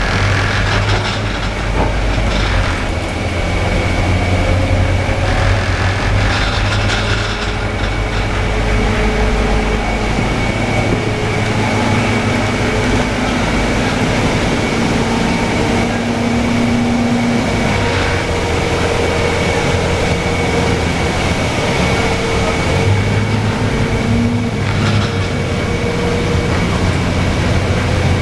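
Cabin sound of a Scania K320UA city bus under way: a steady low diesel engine drone, with tones that slowly rise and fall as the bus gathers speed and changes gear. A constant thin high whine runs over it, and a few short bursts of rattling noise come and go.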